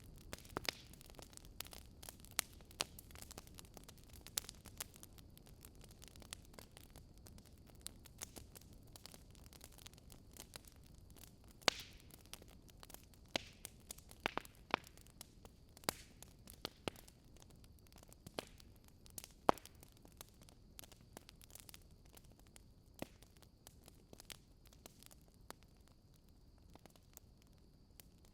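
Campfire crackling: irregular sharp pops and snaps of burning wood over a low hiss, a few louder snaps among many small ones. A faint steady high tone joins in about halfway through.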